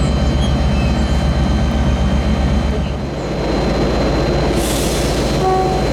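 Diesel train running past, with a heavy, evenly pulsing low engine rumble and a brief hiss near the end.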